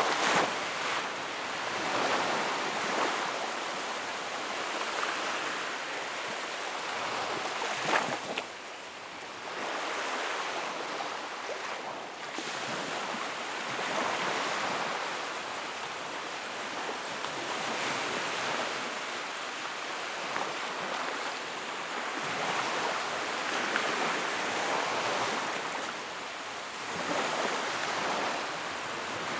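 Sea waves breaking and washing ashore, a continuous surge that swells and eases every few seconds, with one sharper crash about eight seconds in.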